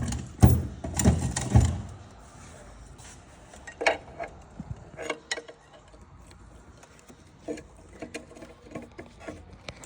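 Metal tools and parts knocking and clinking: several heavy knocks in the first two seconds, then scattered lighter clicks and taps.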